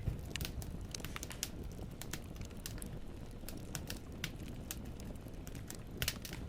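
Wood fire burning in a fireplace: a steady low rumble of flames with irregular sharp crackles and pops of burning logs, a quick cluster of louder pops about six seconds in.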